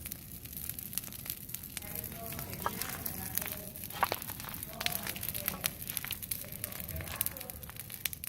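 Open fire crackling, with irregular sharp pops and snaps; faint voices are in the background.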